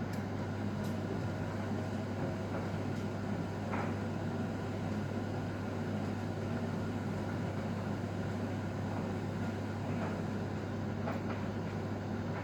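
Bauknecht WAK 6750 front-loading washing machine running empty: a steady motor hum and drum rumble with a few faint clicks.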